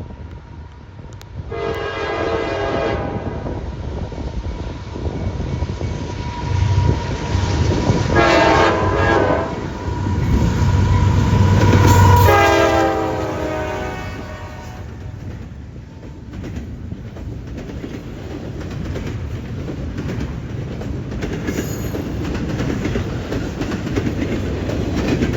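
CSX freight locomotive sounding its horn three times as it passes at speed hauling an intermodal train; the last blast drops in pitch as the locomotive goes by. A heavy rumble peaks with the passing locomotive, then gives way to the steady rumble and clickety-clack of the intermodal cars rolling past.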